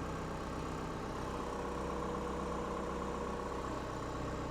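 Heavy diesel engine idling steadily, a constant hum with no change in speed.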